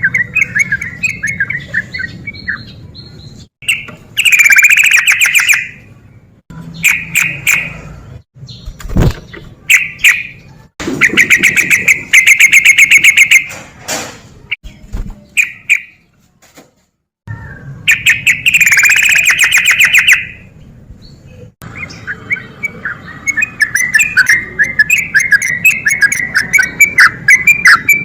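Yellow-vented bulbul (trucukan) singing loud bursts of rapid, chattering pulsed trills, the 'ropel' style, broken by short pauses, with a brief silent gap about halfway through.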